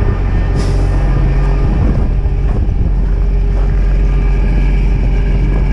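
Strong wind buffeting the microphone, with a truck engine running steadily underneath.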